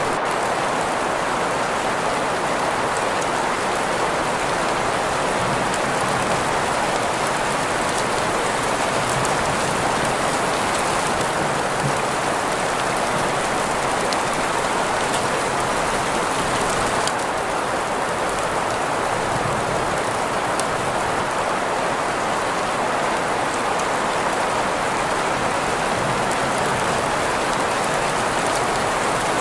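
Steady rain-on-surface sound blended with green noise: an even, unbroken hiss centred in the mid range, with faint scattered drop ticks.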